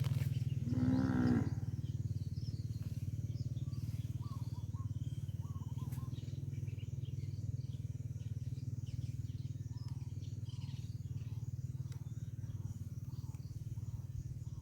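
A steady low hum runs through with faint, scattered bird chirps above it. About a second in, there is one short call with a clear pitch.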